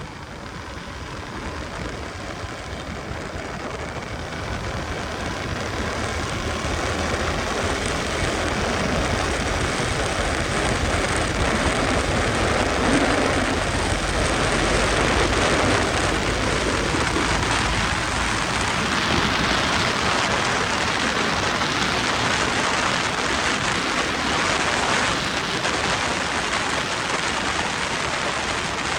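KTM RC 200 riding at speed: a steady rush of wind over the microphone with the bike running underneath. It grows louder over the first ten seconds or so, then holds steady.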